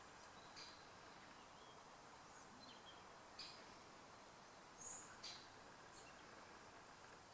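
Near silence: faint garden background with a handful of brief, high chirps from small birds.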